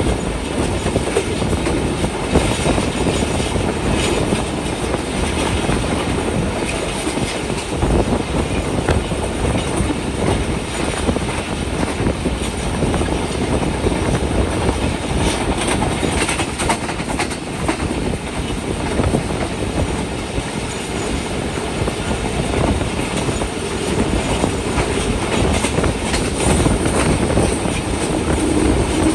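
Passenger train coach running along the track: a steady rumble and rattle of wheels on rails.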